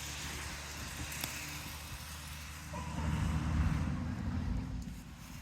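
Low engine rumble with a steady hum, swelling about three seconds in and easing off near the end.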